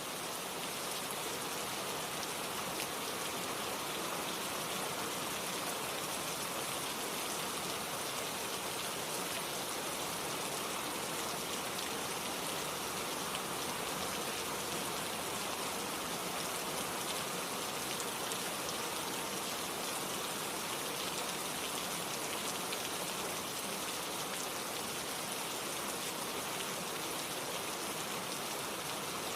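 Steady rain falling, a dense even hiss with fine patter of drops, no thunder.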